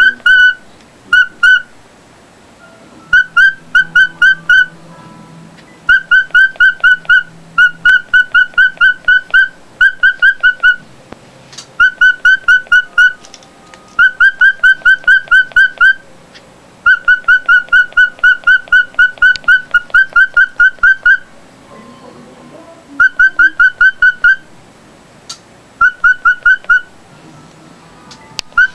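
A pet bird giving loud, rapid, whistled chirps, about five or six a second, in bursts of a few seconds with short pauses between them.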